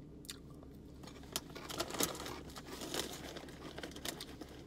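Someone eating: chewing with mouth closed, with many small crackling clicks from the mouth and food throughout.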